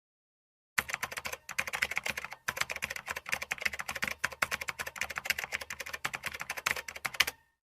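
Rapid, continuous clicking, many clicks a second. It starts about a second in, pauses briefly twice soon after, and cuts off suddenly near the end.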